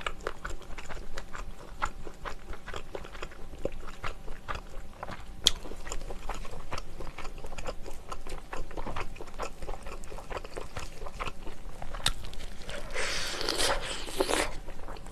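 Close-miked biting and chewing of a piece of soy-braised chicken eaten off the bone, with many small wet mouth clicks. A denser, louder patch of mouth noise comes near the end.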